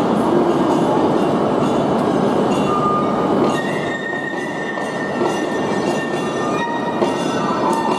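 E5-series shinkansen train moving slowly along the platform, a steady rumble of wheels and running gear. About halfway through, a thin, high, steady squeal sets in over it.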